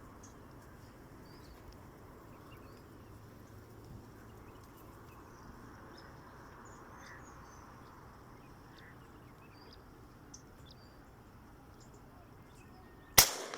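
Faint scattered bird chirps over a quiet marsh background, then near the end a single very loud shotgun shot fired at waterfowl.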